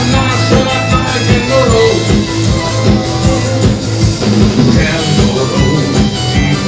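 Live rock band playing a song: drum kit keeping a steady beat under bass and electric guitar.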